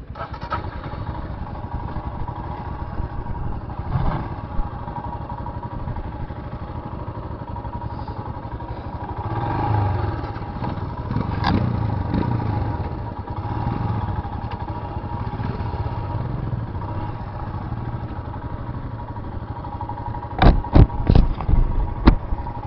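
Royal Enfield Himalayan's single-cylinder engine running, swelling and easing with the throttle. Near the end comes a run of loud knocks.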